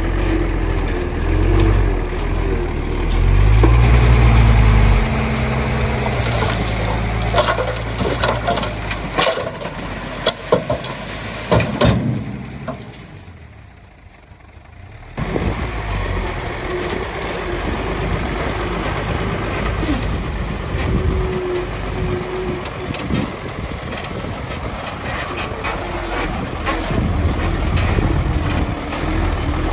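Heavy earthmoving machinery at work: a diesel engine running and revving, with scattered metallic clanks and knocks. The sound drops away briefly about halfway through, then the steady engine noise returns.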